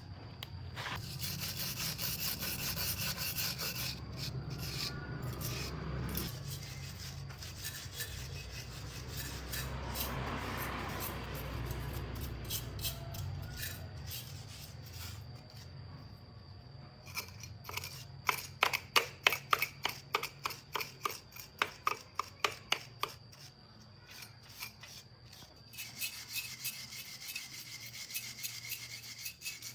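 Hand rubbing and scraping on a hard surface, with a run of quick, even rasping strokes, about four a second, a little past halfway through.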